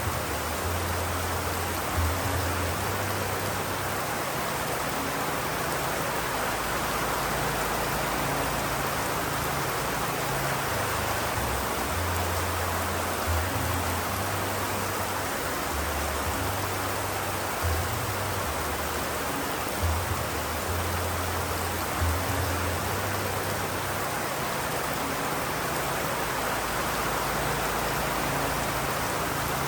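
Steady rain, an even dense hiss of falling water, with an uneven low rumble underneath and a few brief louder drops or taps.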